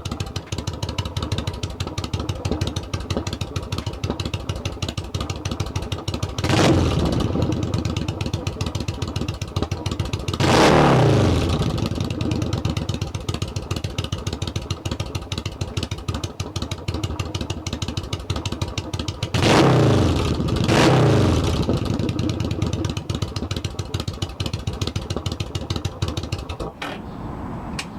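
Yamaha V Star 1100's V-twin engine idling through short, wrapped Cobra headers with cheap shorty tips, blipped four times so the exhaust note rises and falls back, the second blip the biggest. The engine is shut off near the end.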